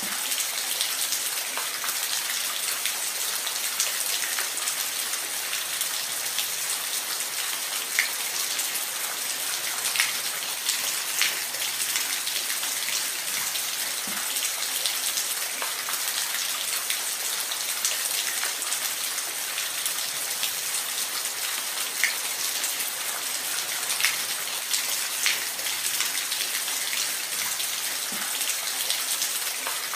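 Steady rain falling in a forest, an even hiss with scattered louder individual drops.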